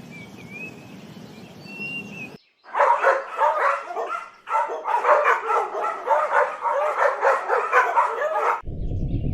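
A dog barking and yelping in a fast, unbroken string of short high yaps, starting suddenly about two and a half seconds in. Before that, faint bird chirps over a quiet background.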